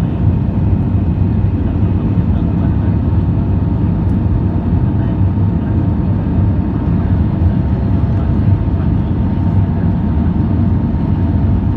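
Steady airliner cabin noise in flight: an even, low rumble of engines and airflow that does not change.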